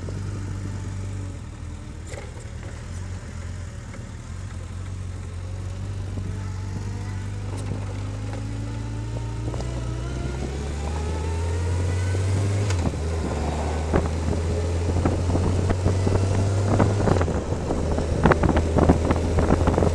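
Motorcycle engine running under way, its pitch climbing as it speeds up and dropping twice in the second half at gear changes. Wind buffeting the microphone grows toward the end.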